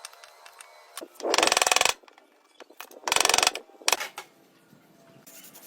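Two short bursts of rapid mechanical clicking, each about half a second long and a second and a half apart, with scattered light clicks and taps between them.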